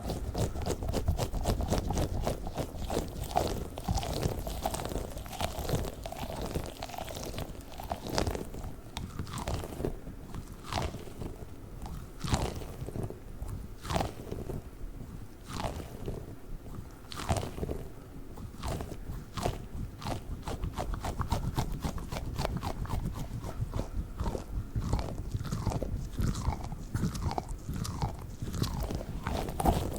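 Squishy balls being squeezed and worked close to the microphone, giving a dense run of crackly, squelchy clicks.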